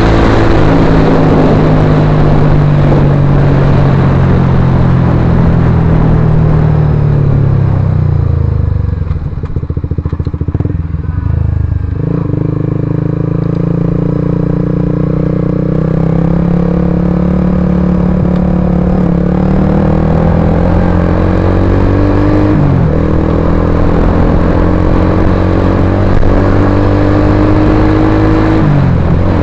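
Suzuki GSX-R150's single-cylinder engine through a Purbalingga-made Akrapovic-style aftermarket exhaust, under way. The note holds steady, falls away as the bike slows about eight seconds in, then climbs again, with brief dips at gear changes twice later on.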